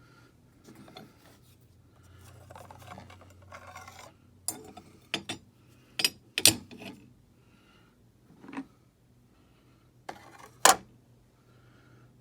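Scraping and rubbing, then a string of sharp clinks and knocks of hard objects being handled, the loudest about six and a half and ten and a half seconds in.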